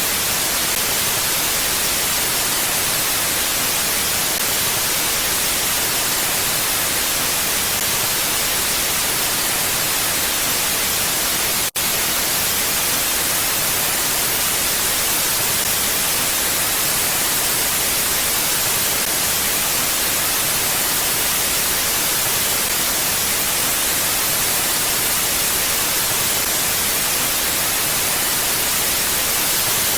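Steady, even hiss of mountain wind, with no gusts or swells, bright and close to white noise. There is one brief dropout just before twelve seconds in.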